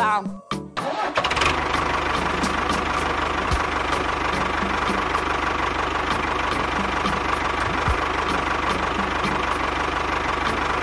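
A motor starts up about a second in and then runs steadily, with a faint, regular ticking over its hum.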